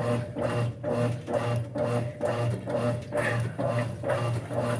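Brastemp 5 kg top-loading washing machine in its wash cycle: the motor hums while the agitator churns the water and clothes, in even pulses about twice a second.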